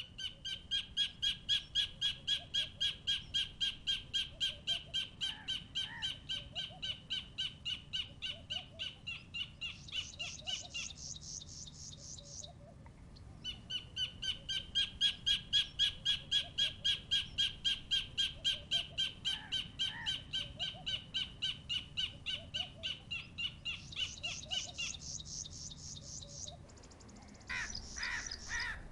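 Collared kingfisher calling: two long series of loud, sharp, evenly repeated notes, about three a second, with a short pause between them. A different, shorter call comes near the end.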